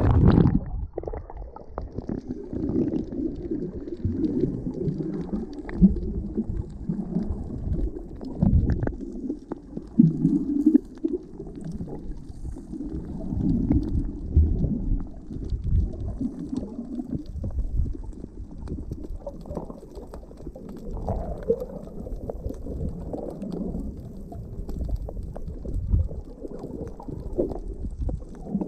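Muffled underwater sound from a camera held below the surface while snorkelling: low, irregular rumbling and sloshing of water against the housing.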